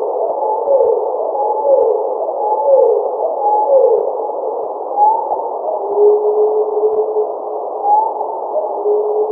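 A bird's chirps, filtered out of yard noise and slowed down many times over, so that they sound like low, drawn-out whistles over a band of hiss. There is a run of falling swoops about once a second for the first four seconds, then short rising glides and two longer steady notes near the end.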